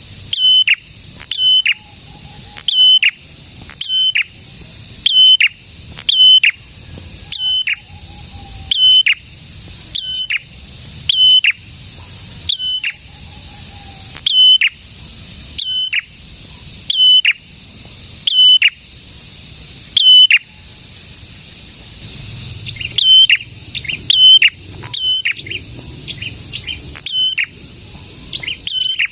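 Prenjak (a small prinia-type songbird) calling in a repeated pattern: a sharp high note that drops quickly, about once every second or so, breaking into quicker, denser calls near the end. A steady high hiss lies underneath.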